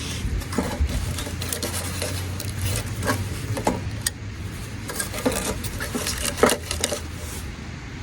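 Irregular clinks and scrapes of hard objects being handled, some clinks ringing briefly, over a low steady rumble.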